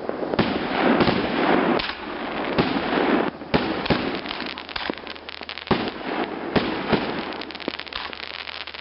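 Fireworks going off: a dense run of bangs and pops over continuous crackling, with a few louder bangs standing out.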